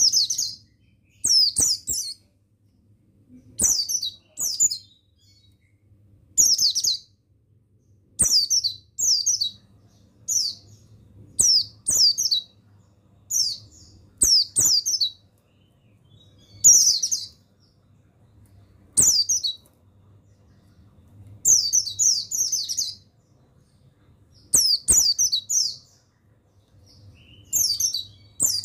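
Pleci buxtoni white-eye chirping: short bursts of a few high, thin, falling notes, repeated every second or two, over a faint low hum.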